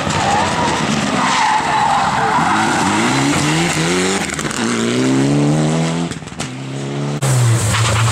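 Historic rally car accelerating hard on a stage, its engine revving up twice with a gear change between the climbs, then holding. A sudden louder engine note near the end falls away in pitch.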